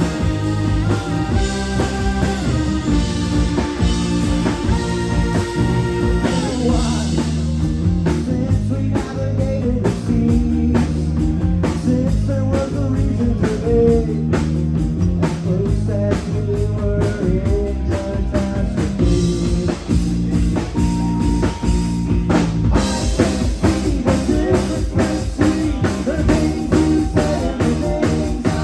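A rock band playing live with guitars and drum kit: held guitar notes at first, then the drums come in hard about seven seconds in.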